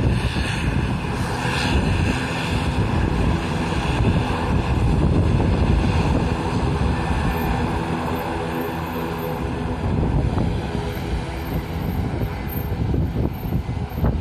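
Airliner engines running as the aircraft passes low overhead: a loud, steady rumble with several held tones in it, easing off in the second half. Strong wind buffets the microphone throughout.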